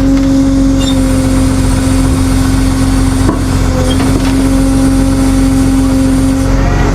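Diesel tow truck engine running at a steady speed with a constant droning tone, and one short knock about three seconds in.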